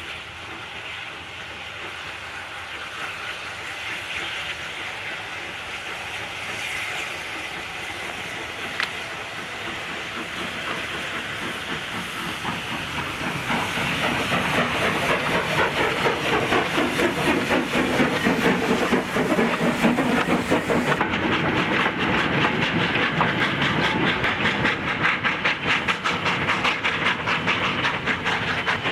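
Steam locomotive working a train, hissing steam with rapid rhythmic beats. It draws steadily closer and grows loud from about halfway through.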